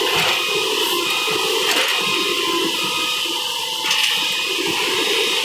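Track relaying train rolling slowly past close by: a steady rushing rumble of steel wheels on the rails with a faint thin squeal, and a sharp clank about four seconds in.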